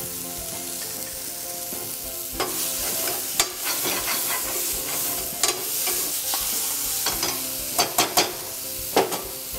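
Onion-tomato masala sizzling in a frying pan on a gas stove while a metal spoon stirs it. From about two seconds in, the spoon scrapes and knocks against the pan several times.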